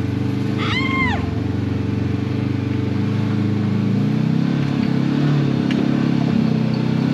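Side-by-side UTV engine running steadily while driving on a trail, its pitch shifting with throttle changes from about four seconds in. A short high arched sound comes about a second in.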